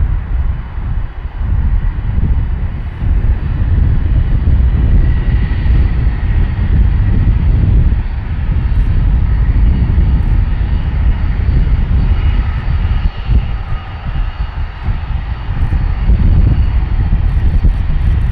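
BAe 146-300QT's four Lycoming ALF 502 turbofan engines running: a loud, steady rumbling roar with a faint high whine over it.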